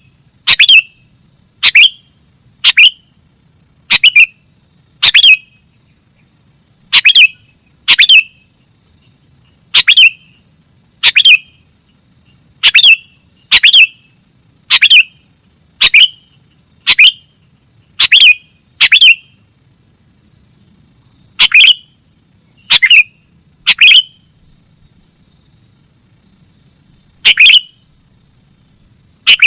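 Sooty-headed bulbul (kutilang) calling: short, sharp, loud notes repeated about once a second with a few short pauses, the kind of recording played as a lure for catching birds. A steady thin high tone runs underneath.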